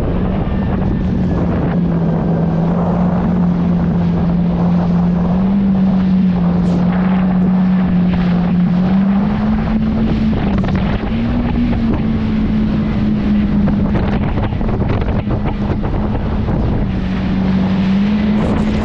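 Jet ski engine running at speed, a steady drone that steps up and down in pitch with the throttle, with wind buffeting the microphone.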